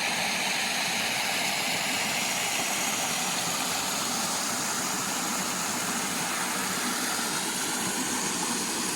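Steady rushing of running creek water, an even, unbroken noise.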